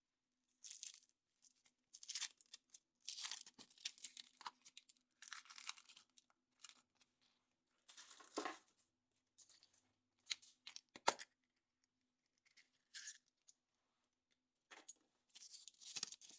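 Foil wrapper of a chocolate surprise egg being torn and crinkled off in short, irregular bursts, with a few sharp clicks about two-thirds of the way through.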